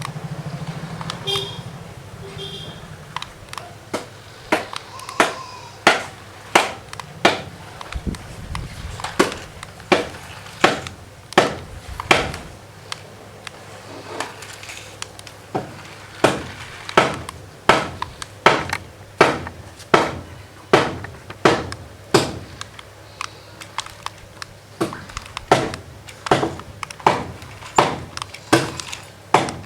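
Repeated sharp knocks of a hard object, about one and a half a second in a steady rhythm, fading for a few seconds near the middle and then picking up again.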